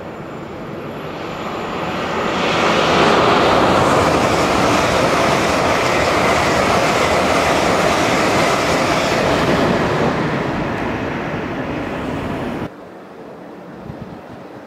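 A train passing close by, a dense rushing rumble of wheels on rails. It builds over the first three seconds, holds steady, eases a little, then cuts off suddenly near the end.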